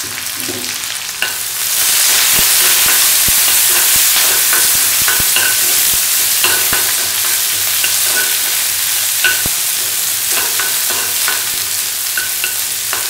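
Sliced onions and curry leaves sizzling in hot oil in an aluminium kadai, stirred with a steel ladle that scrapes and clinks against the pan. The sizzle gets louder about a second and a half in.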